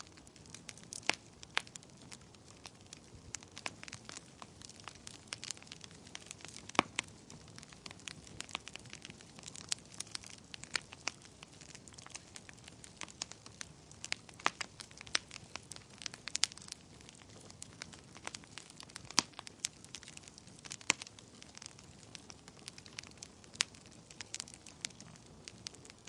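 Wood fire in a fireplace crackling: irregular sharp pops and snaps, several a second, over a low steady hiss of burning.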